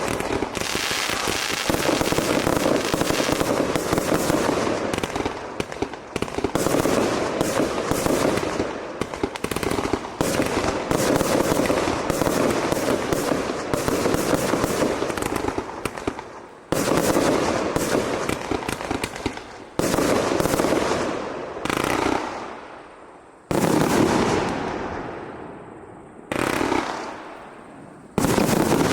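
A multi-shot compound firework cake firing: a dense, rapid barrage of shots and bursts. Near the end it thins to separate loud bursts a second or two apart, each trailing off.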